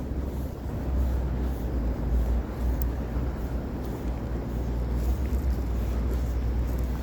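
Steady low rumble of street traffic on a city road, without clear single events.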